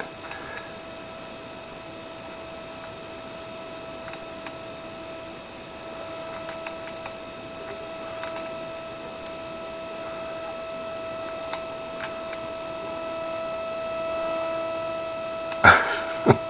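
Steady electrical hum with a main tone near 650 Hz and higher overtones: interference from the RC transmitter bleeding into the camera's electronics. Faint ticks are scattered through it, and two loud short sounds come close together near the end.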